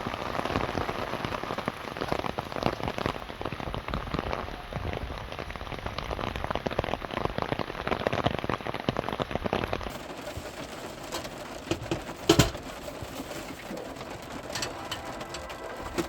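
Rain pattering on a car's roof and body, dense at first, thinning to scattered separate drops about ten seconds in. A single sharp knock sounds about twelve seconds in.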